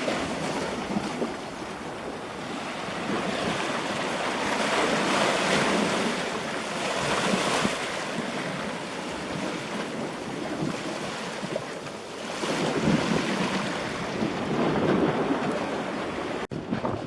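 Steady rushing of wind and surf, swelling and easing every few seconds, with wind buffeting the microphone. It cuts out abruptly for a moment near the end.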